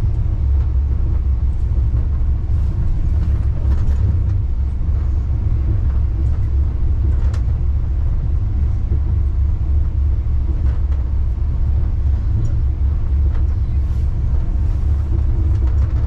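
Wuppertal Schwebebahn suspension railway car running, a steady low rumble with a few faint clicks, heard from inside the car.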